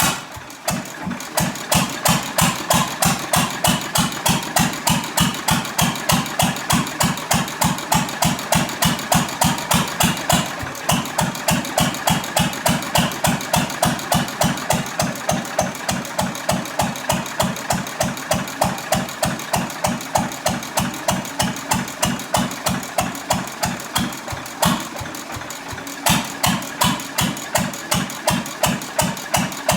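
6 horsepower International Harvester Type M single-cylinder hit-and-miss stationary engine running, its exhaust beating out an even rhythm of roughly three or four beats a second. The beat weakens briefly twice, about ten seconds in and again near the end.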